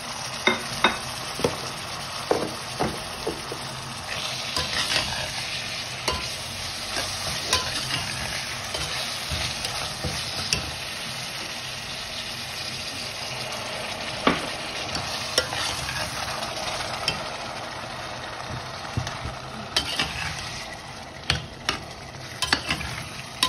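Chopped tomatoes frying in oil and spice masala in a stainless steel pot, with a steady sizzle, while a metal slotted spoon stirs them and clinks against the pot. The clinks come in clusters near the start, about two-thirds of the way through, and near the end.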